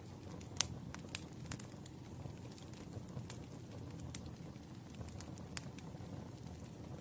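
Wood fire burning: a steady low rumble with irregular sharp crackles and pops from the burning logs, the loudest pop about half a second in.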